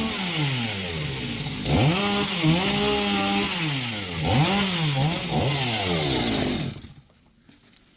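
Two-stroke chainsaw cutting wood, its engine speed repeatedly dropping and picking back up as the chain bites. It cuts off about seven seconds in.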